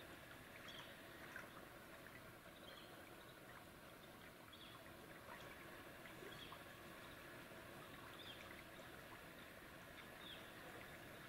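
Near silence: faint outdoor woodland background, with a small bird's short high chirp repeating every second or two.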